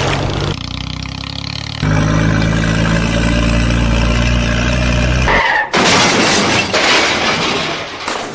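Spliced-together vehicle sound: a steady engine drone, then about two and a half seconds of loud noisy rumble, with abrupt cuts between the pieces.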